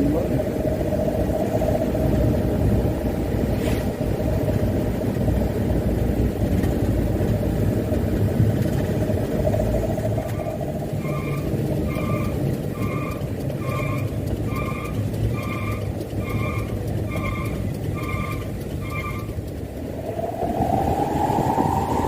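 Mitsubishi Canter dump truck's diesel engine running on the road, with a steady drivetrain whine. About ten seconds in, a cab beeper sounds about ten even beeps, a little over one a second. Near the end the whine rises in pitch as the truck picks up speed.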